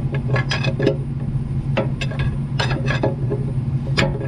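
Irregular sharp metal clinks and knocks of a pry bar working against the flywheel of an old Case 580 backhoe's engine, testing whether the engine is seized. A steady low hum runs underneath.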